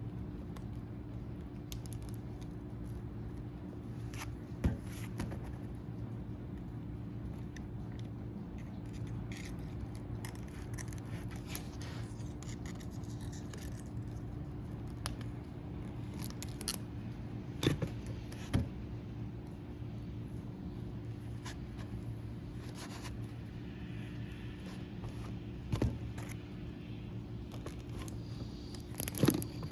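Light scrapes and small clicks of hands working a rubber O-ring and seals onto a hydraulic cylinder part, with a few sharper ticks, over a steady low hum.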